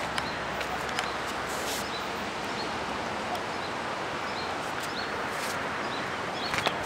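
A bird chirping, one short high call about once a second, over a steady outdoor hiss of wind and surf. Footsteps on the path start to knock louder near the end.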